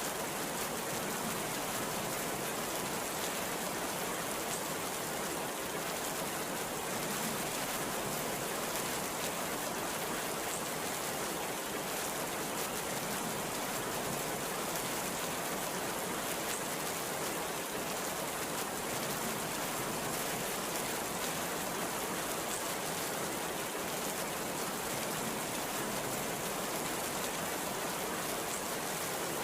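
Heavy rain falling steadily, a dense, even hiss with no let-up and no thunderclap.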